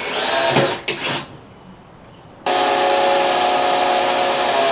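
An electric power tool's motor running at a steady pitch, in spliced clips. It drops away about a second in and comes back abruptly about two and a half seconds in.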